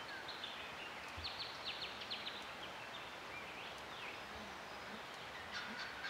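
Wild birds calling: a fast run of short, high notes about a second in, a few sliding calls after it, and another burst of calls near the end, over a steady background hiss.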